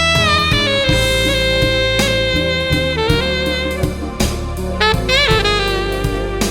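Novasax AX-502 alto saxophone playing a slow jazz ballad melody over a backing track of bass and drums. It holds one long note for a couple of seconds, then plays shorter phrases with bent, sliding notes.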